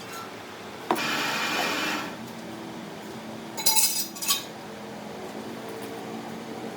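Workshop sounds: a sharp click followed by about a second of hiss, then a quick cluster of ringing metallic clinks about four seconds in, as of metal tools or parts knocking together.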